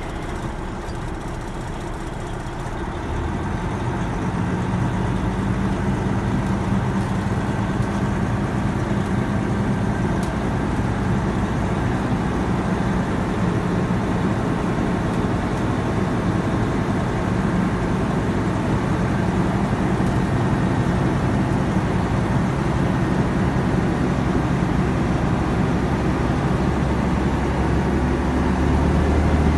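Semi truck's diesel engine running steadily while its air compressor builds air-brake pressure toward the governor cut-out. The engine gets a little louder about four seconds in and deepens near the end.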